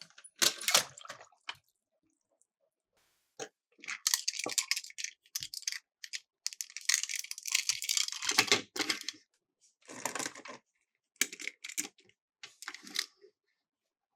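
Miniature toy cars clattering and rattling down a hard toy slope in a series of bursts, the longest a couple of seconds, with short pauses between runs.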